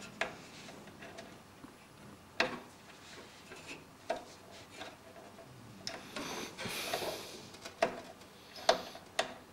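Scattered light clicks and knocks with a short rustle about six seconds in: the front-panel HD audio connector and its cables being handled and pushed onto the motherboard's pin header inside a PC case.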